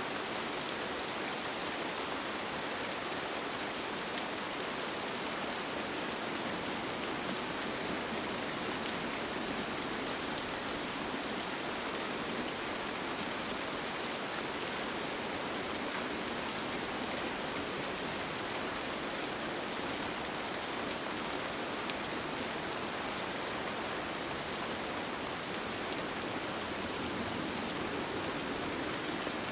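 Steady rain pattering on a tent, with many small drop ticks over an even hiss.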